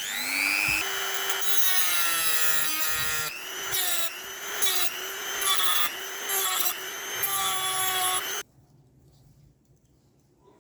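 Small electric power tool spinning up with a rising whine, then running while cutting into material, its pitch dipping and wavering under load. It stops suddenly near the end.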